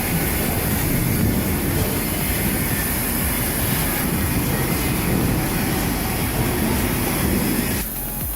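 Loaded logging truck on the move: steady engine and road noise, heaviest in the low range, that drops off suddenly near the end.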